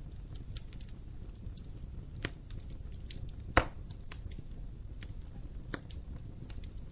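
Wood fire in a fireplace crackling: scattered sharp pops and snaps over a low steady rumble of the flames, with one loud pop about halfway through.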